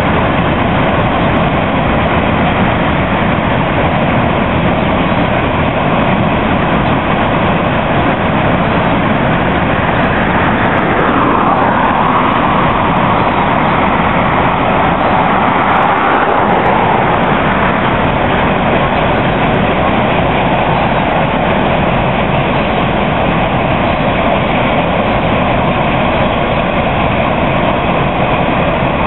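Freight train passing close by: wagons rolling over the rails, a loud steady rumble that swells for a few seconds about halfway through.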